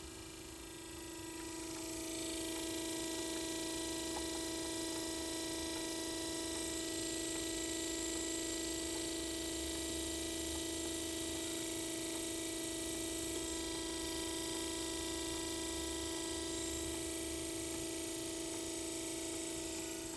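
Audi A8 D3 heater blower motor running on test after its right bushing and brushes were replaced: a steady hum with a rush of air, coming up to speed over the first two seconds and easing off near the end.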